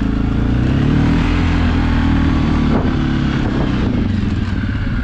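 Suzuki KingQuad ATV engine running steadily under throttle while the quad is ridden through snow. Its pitch rises slightly early on and eases off near the end.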